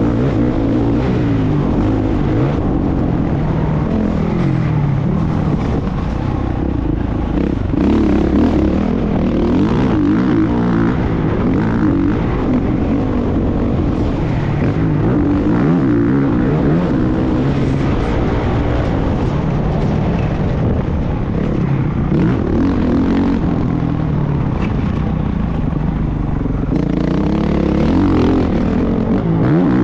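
Motocross bike engine running hard and loud, its pitch rising and falling continuously as the throttle is opened and closed.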